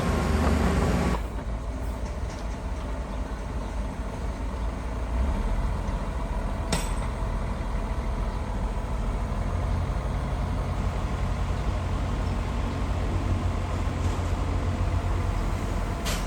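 Heavy diesel engine of earthmoving machinery running steadily with a deep rumble. The level drops abruptly about a second in, and a single sharp click comes about seven seconds in.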